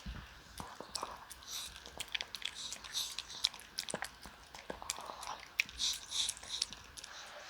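A dog eating its food: quick, irregular chewing and crunching.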